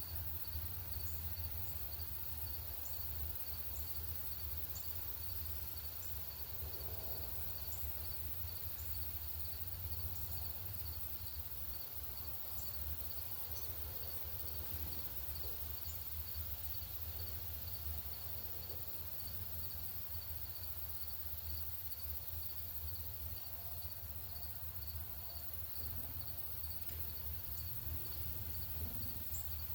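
An insect trilling steadily in an even pulsing rhythm, over a constant low rumble, with scattered short, very high chip notes from birds.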